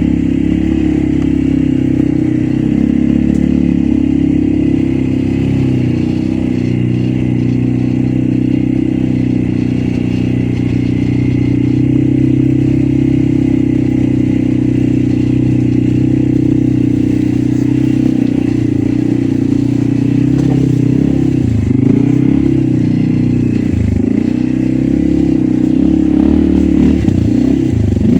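Loncin X-Wolf 550L ATV engine running steadily while it is ridden along a forest track. About two-thirds of the way in, the revs start to dip and rise again and again as the throttle is worked.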